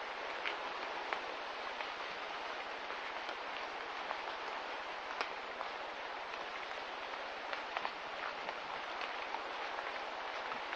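Steady rain falling, an even hiss scattered with small drip ticks.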